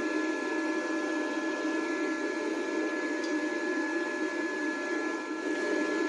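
Welding machine's cooling fan running with a steady hum and a thin constant whine while it idles between welds.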